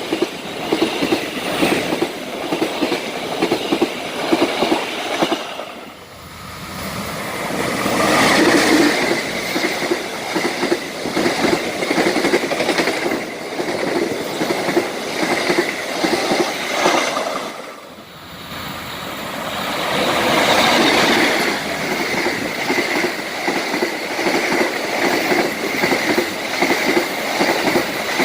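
Trains passing at speed, their wheels clattering rapidly over the rails. The sound fades and swells back twice, about six and about eighteen seconds in.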